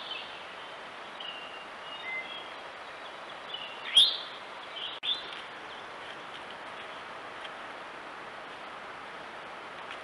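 Wild songbirds chirping and whistling in short calls over a steady background hiss, with a sharp rising call about four seconds in the loudest sound. The calls stop after a brief dropout about halfway through, leaving only the hiss.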